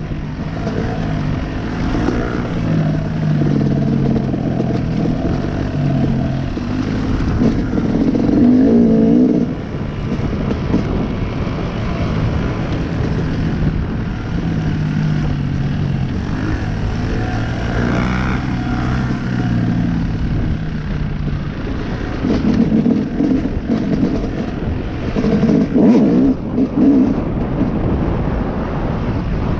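Small dirt bike engine revving up and down over and over, its pitch rising and falling as the throttle opens and closes, with louder surges now and then.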